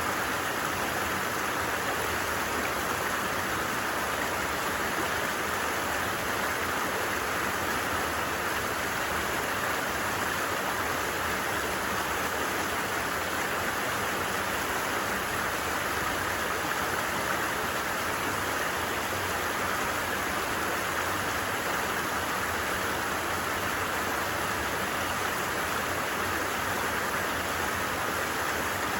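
Flowing creek water, a steady, even rushing without change.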